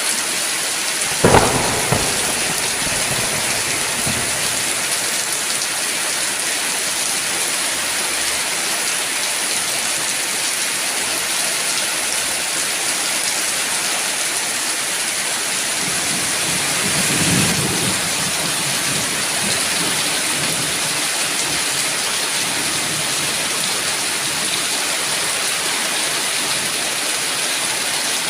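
Heavy rain falling with a steady hiss, broken about a second in by a sharp thunderclap, and a low roll of thunder rising and fading around halfway through.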